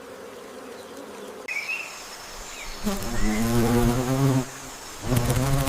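Flying insect buzzing close by in two passes: about three seconds in and again near the end, each buzz wavering in pitch, over a faint steady hum.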